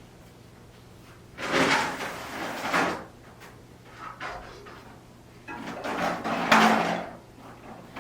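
Two bouts of sliding, scraping household handling noise, each about a second and a half long, with a few small knocks between them, over a faint steady low hum.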